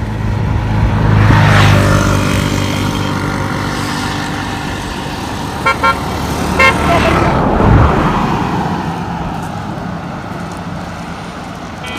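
Road vehicles passing by, one about a second and a half in and another near eight seconds, each rising and then falling away in pitch. Two short horn beeps sound in between.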